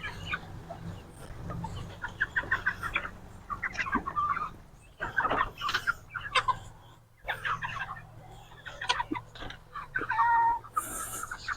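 Meat chickens clucking and peeping in a group, in short repeated calls, over a steady low hum.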